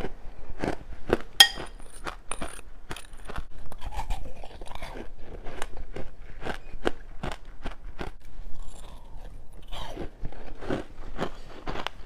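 Close-up chewing and crunching of juice-soaked freezer frost: many irregular, wet crunches, several a second.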